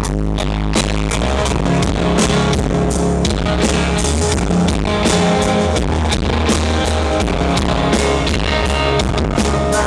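Rock band playing live, an instrumental passage: electric guitars and bass over a steady drumbeat, with no vocals.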